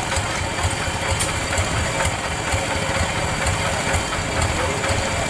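Farm tractor's diesel engine running steadily at low revs, with an even low beat of about four pulses a second.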